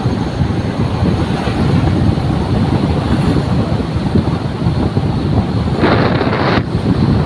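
Wind buffeting the microphone in a steady loud rumble, with a brief louder hiss about six seconds in.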